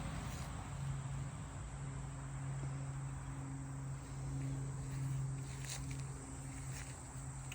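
Outdoor ambience of insects chirping, over a steady low hum, with a few faint rustles near the end.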